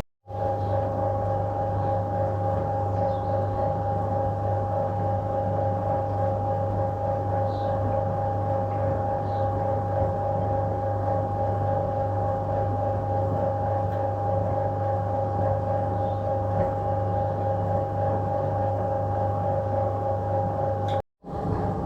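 1966 Bendix LA automatic washing machine running in its wash stage: a steady hum from the machine, with two steady tones over a low drone. It drops out for a moment right at the start and again about a second before the end.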